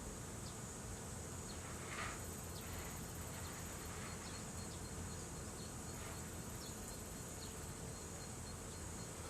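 Steady high-pitched chorus of insects, with scattered faint crackles from a wood campfire.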